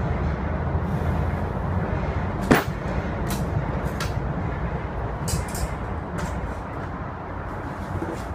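Metal hand tools clicking and knocking on scooter parts, with one sharp ringing metal clank about two and a half seconds in, over a steady low rumble.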